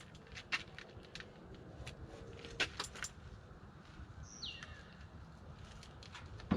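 Scattered metallic clinks and knocks of a pry bar working against the flywheel ring gear, trying to turn a seized tractor engine. A bird calls once about halfway through.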